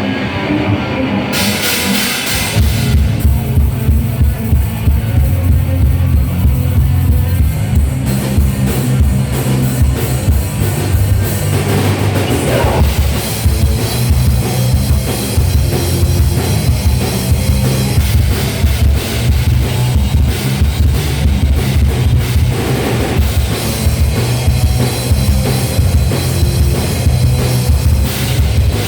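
A live rock band with electric guitar, bass and drum kit. The drums and bass come in about two seconds in, and the full band then plays on with a steady driving beat.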